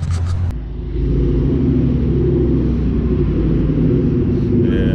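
A car engine idling loudly and steadily with a choppy, lumpy beat, the chop of an aggressive camshaft.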